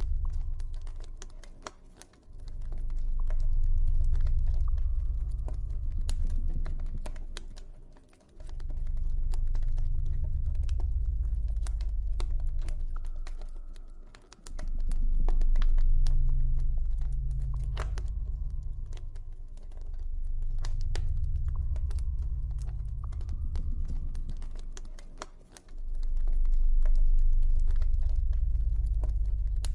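Campfire crackling, with irregular sharp pops and snaps, over a deep ambient drone that swells and fades about every six seconds.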